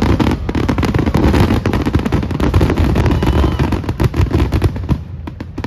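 Fireworks display: a rapid barrage of many bangs and crackles over a low rumble, thinning out near the end.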